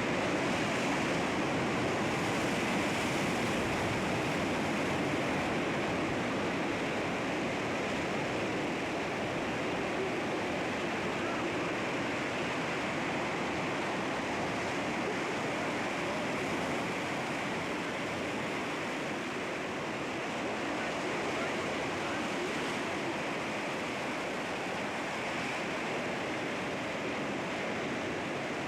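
Sea waves washing against rocks: a steady, even rush of surf with no distinct breaks.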